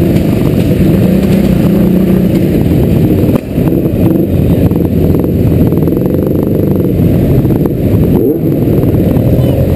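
Yamaha XJ inline-four motorcycle engine running at low road speed, with other motorcycles close around it, heard from a helmet-mounted camera. The engine note dips briefly about three and a half seconds in, then carries on.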